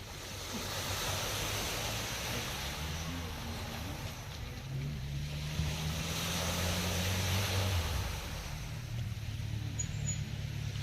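A motor vehicle's engine running steadily, its hum growing louder in the middle and easing off again, over a rushing outdoor noise.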